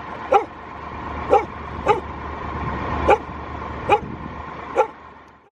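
A dog barking, six short barks at uneven intervals, over a steady low rumble that swells and then fades. The sound cuts off abruptly near the end.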